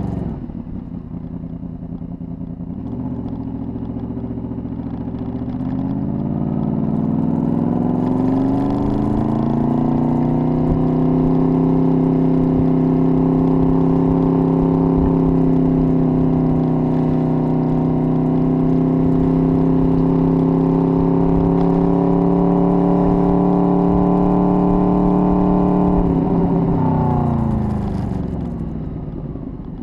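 Honda VFR800's V4 engine on the move. It speeds up from about three seconds in, its pitch and loudness climbing for several seconds, holds a steady pitch while cruising, then drops in pitch near the end as the bike slows.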